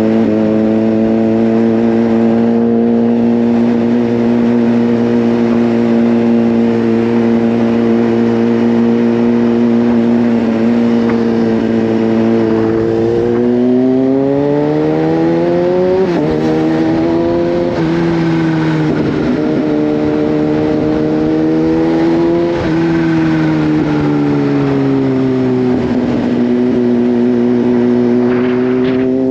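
Kawasaki Z H2's supercharged inline-four engine running at a steady cruise. About 13 s in it rises in pitch under acceleration, drops sharply around 16 s, holds steady, then falls as the bike slows and picks up slightly again near the end.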